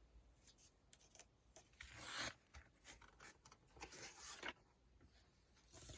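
Near silence, with a few faint rustling scrapes, the clearest about two seconds in and again about four seconds in.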